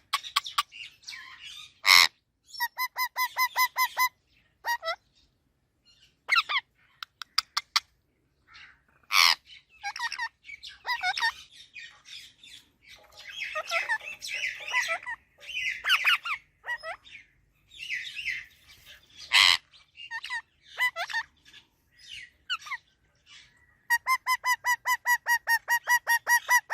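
Pet parrot vocalising: bouts of chatter and squawks broken by a few very loud, short screeches, and two runs of quick, evenly repeated pitched notes, the second near the end.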